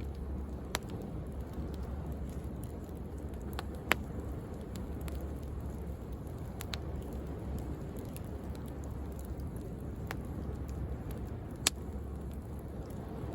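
Bonfire wood crackling, with scattered sharp pops, the loudest about four seconds in and another near the end, over a steady low rumble of sea waves.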